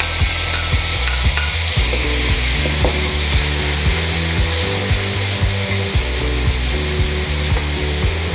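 Chopped tomatoes sizzling in hot oil in a non-stick kadai, stirred with a wooden spatula that now and then knocks and scrapes against the pan.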